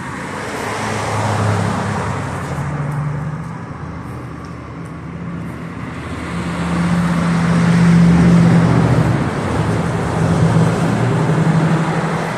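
Road traffic passing on a busy street: engine hum and tyre noise that swell as vehicles go by, loudest about eight seconds in.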